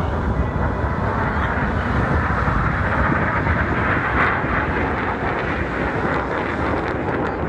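Aircraft engine noise as a plane flies past, a steady rushing sound that swells a little about midway and then eases.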